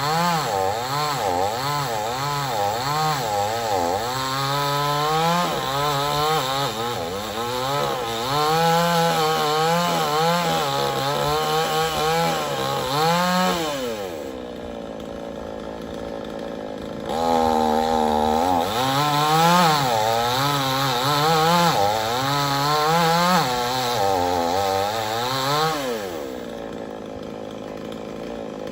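Chainsaw cutting wood, its engine pitch wavering as the chain bites. About halfway it drops back to idle for a few seconds, then revs up and cuts again before settling to idle near the end.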